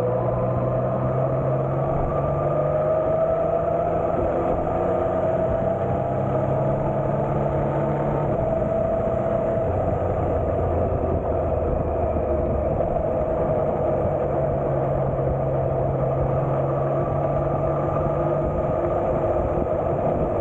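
Yamaha Tracer 900 GT's three-cylinder engine running under way at a fairly steady speed. Its note drops lower about ten seconds in and climbs back a few seconds later, over a steady rush of road and wind noise.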